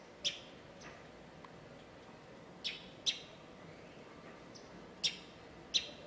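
A small bird's short, high chirps, five of them, the later ones in pairs about half a second apart.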